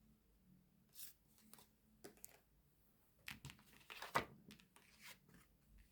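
Faint, scattered rustles and soft clicks of tarot cards being handled and laid out, with a small cluster of them about halfway through.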